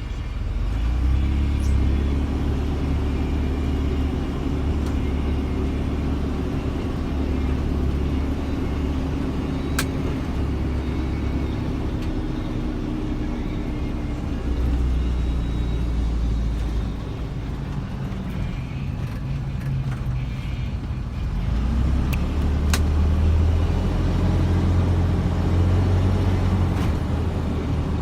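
Engine and road noise of a moving vehicle, heard from inside. The engine picks up about a second in, eases off about two thirds of the way through, then pulls again, with a couple of faint clicks.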